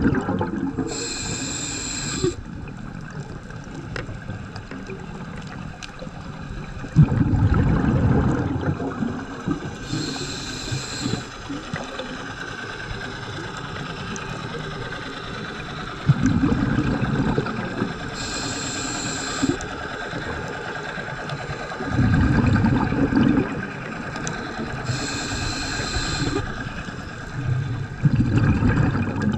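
Scuba diver breathing underwater through a regulator, four full breaths. Each inhale is a short hiss with a thin whistle, and a few seconds later each exhale is a burst of rumbling, gurgling bubbles.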